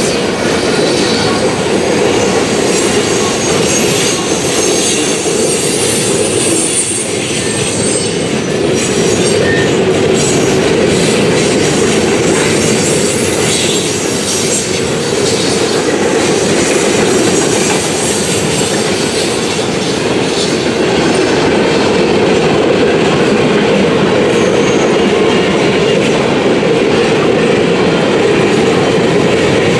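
A freight train's cars rolling past at close range: a loud, steady rumble and clatter of steel wheels on rail.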